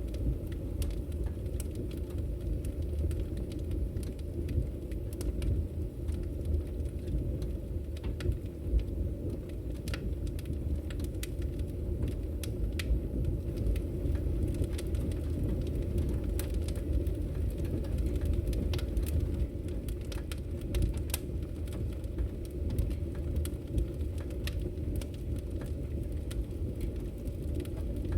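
Fireplace fire crackling: frequent sharp, irregular pops and snaps over a steady low rumble of the flames.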